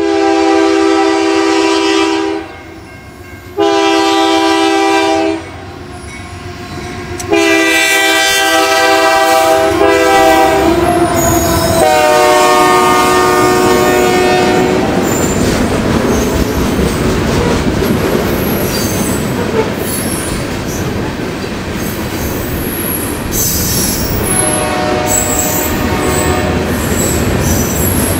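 Locomotive air horn sounding several long blasts, its pitch dropping as it passes about twelve seconds in. Then the freight train rolls by, rumbling, its wheels squealing and clacking over rail joints. A fainter horn sounds again near the end.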